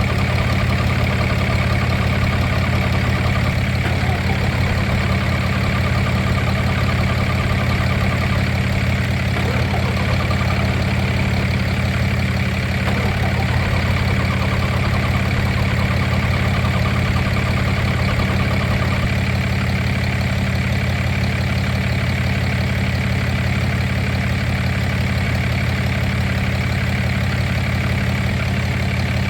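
An engine idling steadily, with an even, deep hum that does not change.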